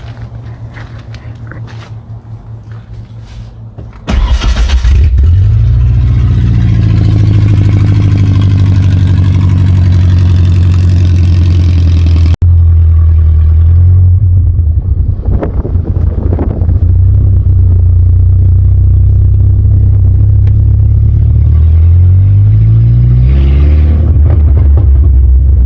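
Ford Ranger engine with open exhaust (headers and downpipe only), idling low at first, then about four seconds in suddenly much louder and rising in pitch as it pulls away. It runs steadily under load and rises in pitch again near the end as it accelerates.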